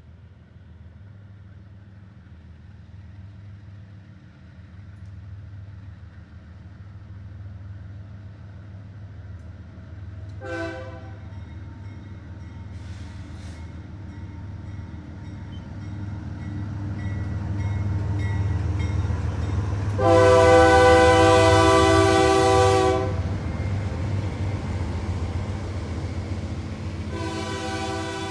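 Approaching freight train's diesel locomotive, its engine rumble growing steadily louder, sounding its horn: a short blast about ten seconds in, a long loud blast a few seconds later, and another starting near the end.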